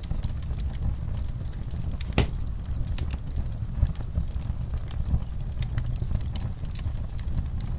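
Fire in a fireplace crackling: scattered sharp pops over a steady low rumble of the flames, with one louder pop about two seconds in.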